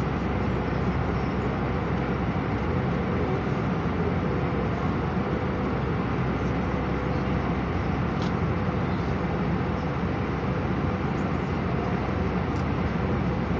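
Steady cabin noise inside an Airbus A319 airliner: an even drone of engines and airflow, with a faint steady hum.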